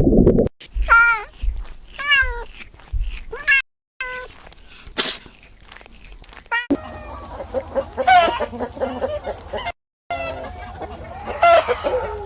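Domestic cats meowing: a run of short meows, each falling in pitch, in several clips joined by abrupt cuts. A low noisy sound cuts off about half a second in.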